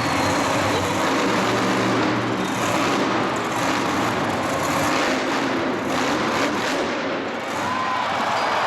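Loud, steady engine noise from a show vehicle running in the arena, with no break.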